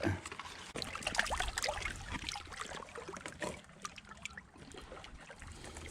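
Water trickling and splashing lightly, with many small scattered clicks and knocks.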